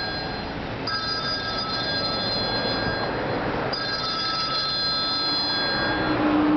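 A telephone ringing, a ring of high steady tones about every three seconds, over a steady background noise.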